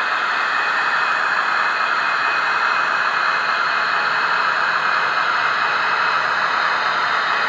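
Model train running on the layout: a steady mechanical whir and hiss that holds level throughout.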